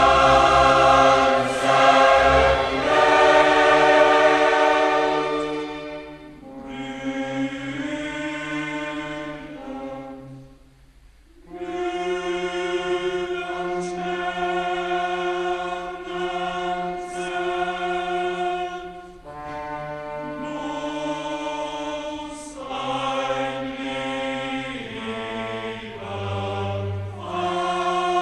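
Background choral music: voices holding long sustained chords in slow phrases, with a short pause about ten seconds in.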